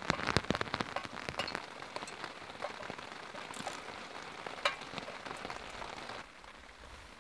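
Rain pattering on a tarp overhead, a dense spatter of drops that is heaviest for the first second or so, then lighter, thinning out near the end.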